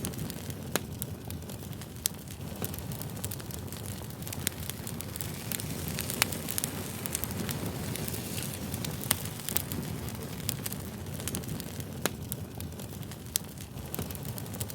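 Campfire crackling: a steady low rumble of burning wood with sharp pops and snaps at irregular moments, a couple of them louder than the rest.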